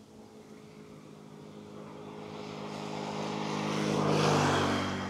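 A motor vehicle passing close by on the road: its engine and tyre noise grow steadily louder, peak about four seconds in, then fall away with a slight drop in pitch.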